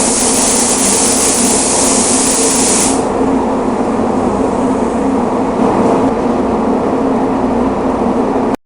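Paint spray gun hissing steadily over a constant mechanical hum. The spray stops about three seconds in, and the hum continues until it cuts off abruptly near the end.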